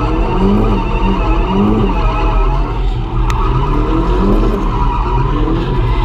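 Drift car engine rising and falling in pitch several times under throttle, with tyres skidding.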